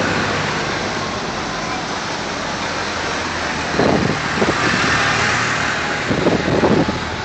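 Tractor engines running steadily amid road noise, with a few short louder bursts in the second half.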